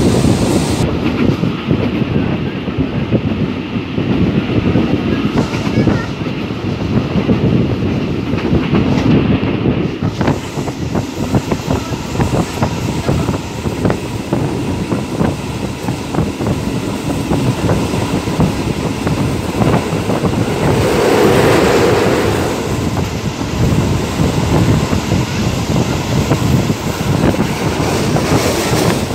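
Thai Railways passenger train running along the line, heard from an open carriage window: a continuous rumble with the clickety-clack of the wheels over the rail joints. It grows louder for a moment about two-thirds of the way through.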